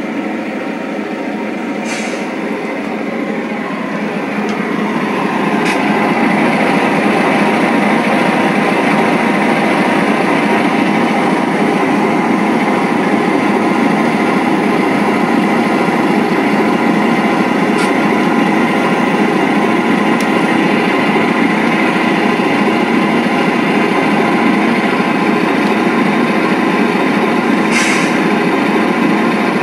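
Diesel train passing: a steady rumble of locomotives and rolling cars that starts suddenly, swells over the first few seconds and then holds level, with a few faint clicks.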